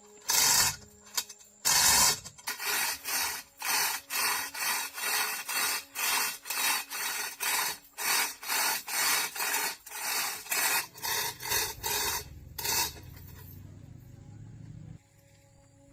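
Hand filing or rasping: a tool stroked back and forth over a workpiece, about two rasping strokes a second, the first few loudest. The strokes stop near the end, leaving a low hum.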